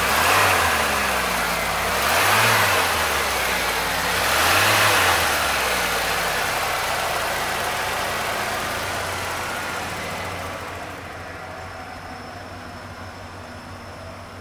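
1994 Ford F150's 351 V8 engine blipped three times, about two seconds apart, each rev rising and falling back, then settling into a steady idle that grows fainter near the end.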